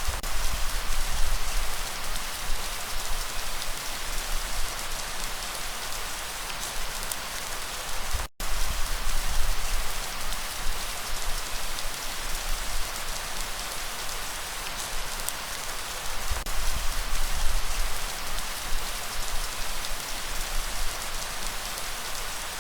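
Steady heavy rain hiss, with a low rumble underneath that swells and fades. The sound cuts out for a split second about eight seconds in.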